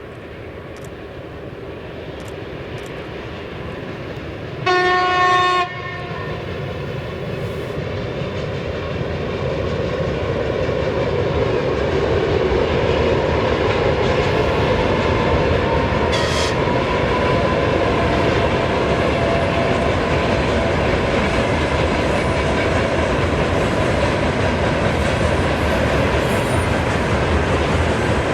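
Freight train approaching and passing. Its locomotive gives one horn blast of about a second, about five seconds in. The train's running noise grows louder over the first dozen seconds, then holds steady as it goes by.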